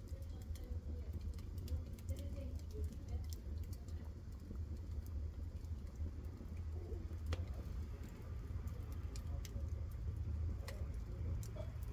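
Wood fire burning in a stove: scattered sharp crackles over a steady low rumble.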